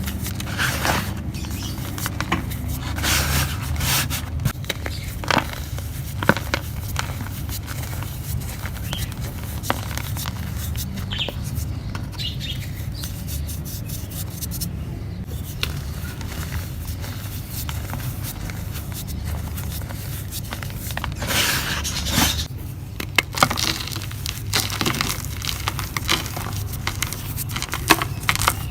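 Dry mud and cement being crumbled by hand: irregular crunching, crackling and scraping with sharp snaps, heavier in bursts, over a steady low hum.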